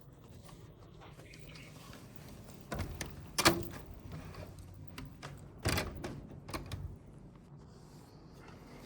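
A few sharp clunks and knocks against a low steady hum: a cluster about three seconds in, the loudest just after it, and a second cluster near the six-second mark.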